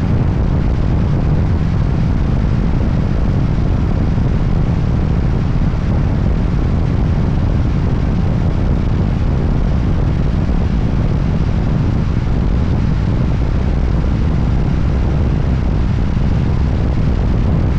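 Steady wind rush over the microphone mixed with a Voge 300ACX motorcycle's engine running at an even speed while riding.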